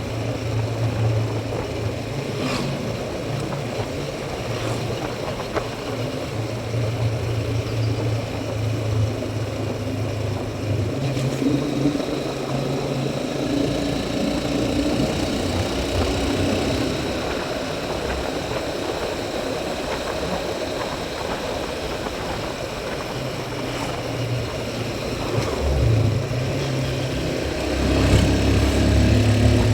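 Motorcycle engine running while the bike is ridden, with wind and road noise over it. The engine note drops back about halfway through and rises again near the end.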